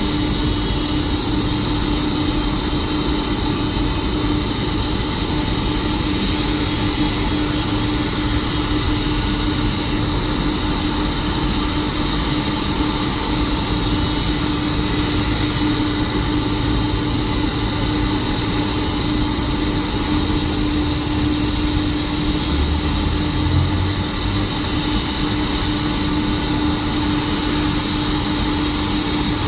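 Boeing 747-400's jet engines running at idle as the airliner taxis in to its gate: a loud, steady, unbroken noise with a constant low hum.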